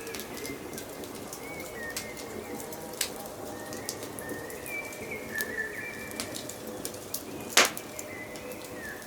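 Wood fire crackling with scattered sharp pops, one loud crack a little before the end, while birds call in short repeated phrases in the background.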